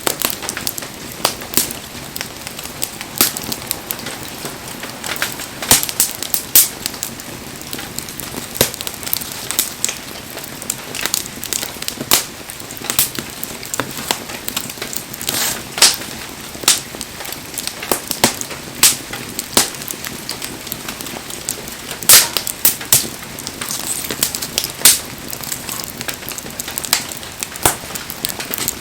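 Wood fire burning, crackling steadily with irregular sharp pops from the burning firewood.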